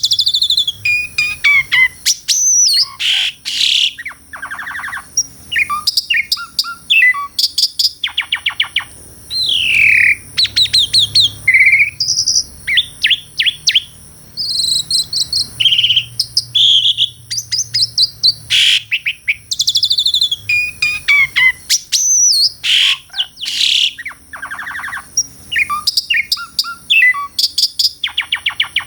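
Asian pied starling (jalak suren) singing a long, varied song: fast rattling clicks, down-slurred whistles and chattering phrases, with short pauses between bursts.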